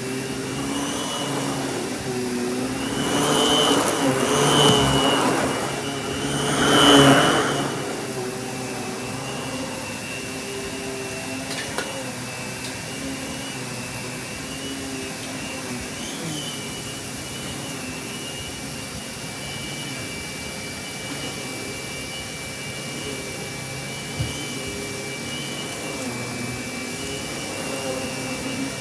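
Kenmore canister vacuum running steadily with a high motor whine. A few seconds in, the rush of air swells louder twice, then settles back to an even drone.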